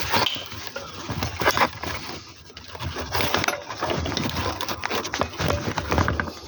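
Handling noise close to the microphone: irregular clicks, knocks and rubbing, with a brief lull about two seconds in.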